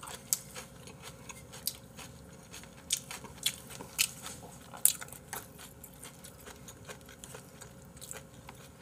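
Close-miked chewing and biting of food, with irregular sharp mouth clicks, the loudest few spread over the first five seconds.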